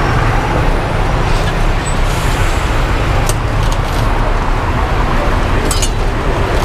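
Steady low rumble of street traffic, with a few sharp clicks about three and six seconds in.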